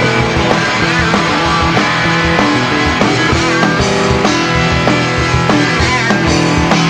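Punk rock band playing live, an instrumental passage with electric guitars over a steady beat.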